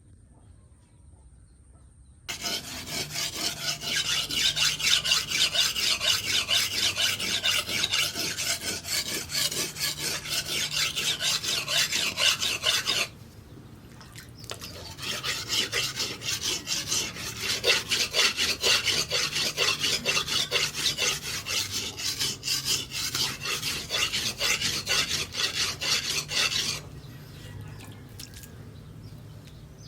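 Steel machete blade being worked by hand against an abrasive, filed or sharpened in quick, even back-and-forth strokes. There are two long runs of strokes, broken by a short pause about 13 seconds in. The strokes stop a few seconds before the end.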